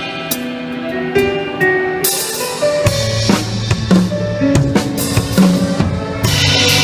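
An orchestra with a drum kit playing an instrumental passage of a Thai pop song: held notes at first, then about two seconds in a bright crash, and from about three seconds in drums and bass come in with a steady beat.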